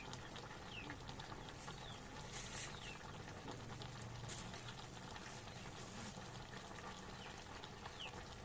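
Faint short falling chirps from a small animal, heard several times, over a low steady background hiss.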